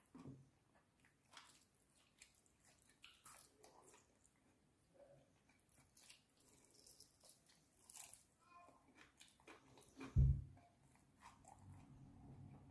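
Close-up eating sounds of fried chicken and French fries: crisp bites into breaded chicken skin and moist chewing, in scattered short crackles. A single dull low thump stands out about ten seconds in.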